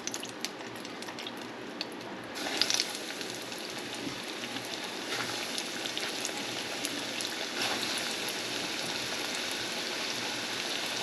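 Cornstarch-coated lobster pieces deep-frying in hot oil in a small saucepan: a steady crackling sizzle that jumps louder about two seconds in as the first pieces go into the oil, and builds slowly as more are added.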